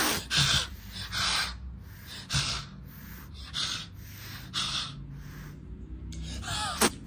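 Short, breathy snuffling breaths close to the microphone, about one a second, with a brief high pitched cry and a click near the end.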